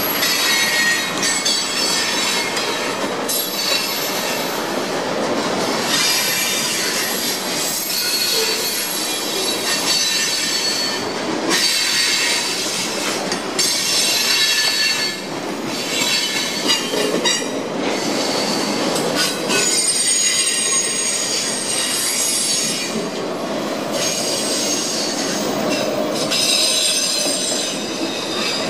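Freight train cars rolling past close by, steel wheels rumbling over the rail joints, with high-pitched wheel squeal coming and going.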